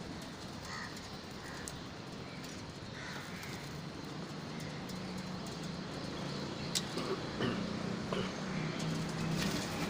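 Birds calling in short, scattered calls over a steady background, with a few sharp clicks in the second half.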